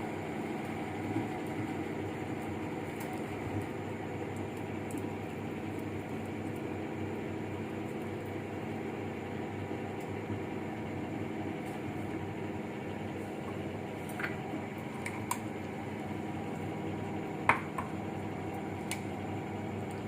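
Steady mechanical hum of a running appliance. A few light clicks come in the second half.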